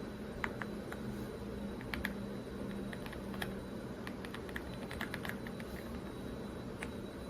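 Typing on an AULA F75 mechanical keyboard with pre-lubed Reaper switches: scattered, irregular keystrokes that quicken into a short run of presses about halfway through, over a steady background hum.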